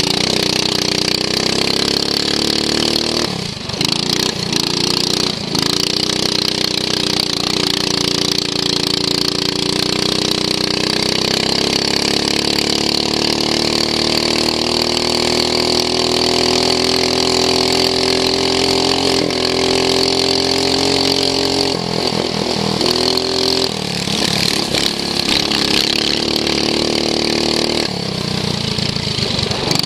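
Racing lawn mower engine heard from onboard under racing load. Its pitch climbs slowly for a long stretch, then drops sharply about three-quarters of the way through and stays low for a few seconds before picking up again near the end, as it does on a brief dip a few seconds in.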